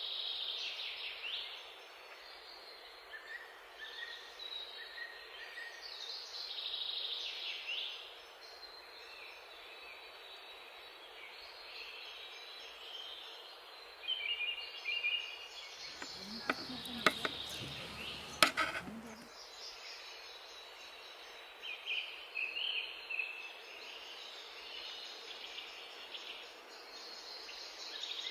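Outdoor ambience with birds chirping on and off. About two-thirds of the way through, a few sharp knocks and clatters stand out for about three seconds.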